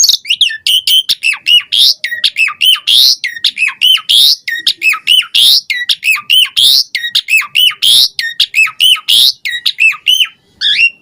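A pied starling (jalak suren) singing a fast, unbroken run of varied notes: squeaky gliding whistles and chirps mixed with harsh, raspy squawks, several notes a second.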